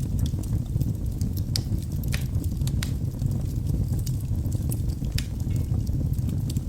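Wood fire burning in a fireplace: sharp, irregular crackles and pops from the burning logs over a steady low rumble of the flames.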